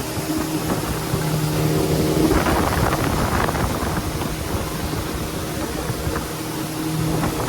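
Boat engine running steadily, a constant hum, with wind buffeting the microphone and a louder rush of noise about two to three seconds in.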